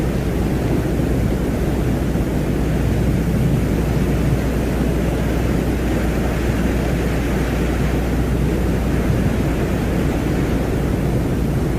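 Steady deep rumbling noise with a constant low hum beneath it and no breaks or events: an ambient space drone offered as the sound of Venus.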